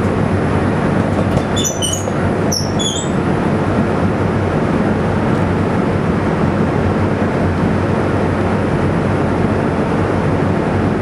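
Nitrous small-block Chevy V8 running steadily at idle on the engine dyno, a loud, even rumble with no revving. A few brief high squeaks come about two and three seconds in.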